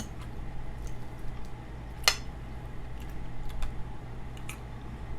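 Eating sounds: a person chewing pot roast close to the microphone, with a few soft clicks and one sharp click about two seconds in, over a steady low hum.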